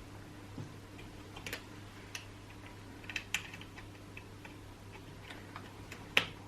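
Irregular light clicks and taps of chainsaw parts and hand tools being handled during reassembly, a dozen or so spread unevenly, the sharpest near the end, over a steady low hum.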